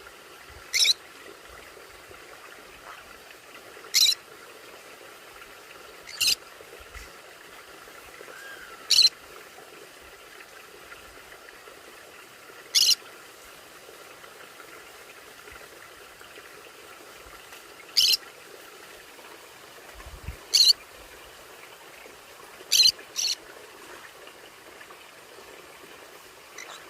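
Pet conure giving about ten short, high, sharp calls, spaced irregularly a few seconds apart, two in quick succession a little before the end.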